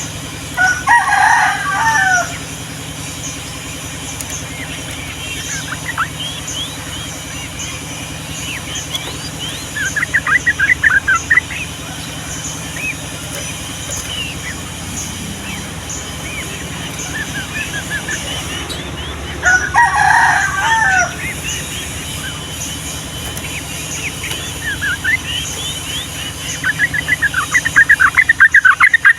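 Yellow-vented bulbul singing: two loud bubbling phrases, one about a second in and one in the middle, with bursts of rapid chattering notes that build near the end. Faint chirps from other small birds and a steady low hum run underneath.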